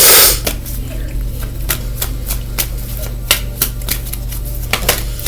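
Tarot or oracle cards being handled: a brief rustle at the start, then a run of light, irregular clicks and taps over a steady low hum.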